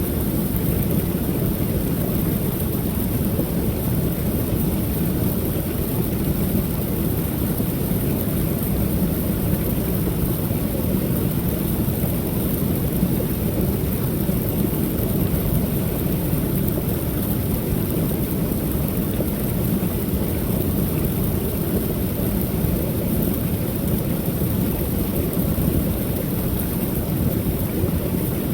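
Waterfall on a creek pouring steadily: a constant deep rush of falling water without change.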